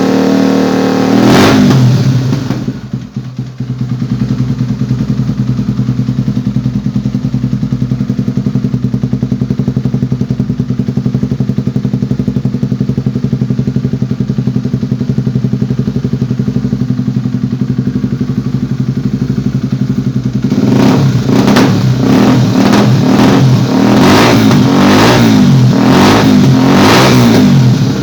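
Honda Tornado 250 motorcycle's single-cylinder four-stroke engine, heard through an aftermarket exhaust. It gives one throttle blip about a second in, then idles steadily. From about two-thirds of the way through it is blipped repeatedly in quick revs.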